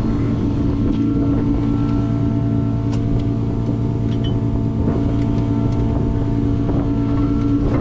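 Inline-six 1.5JZ engine of a KE70 Corolla drift car running at a steady, unchanging speed, with a few faint light clicks over it.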